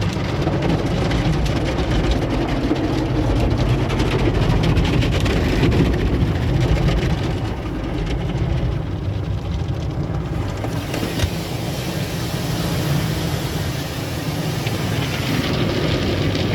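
Automatic tunnel car wash equipment running around the car, heard from inside it: a loud, steady rush of noise over a low rumble, turning hissier about ten seconds in.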